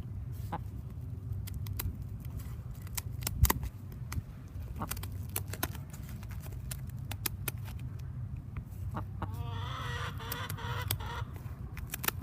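Scissors snipping through a hen's wing feathers in a run of sharp clicks, the loudest about three and a half seconds in. Near the end the hen gives a short burst of clucking.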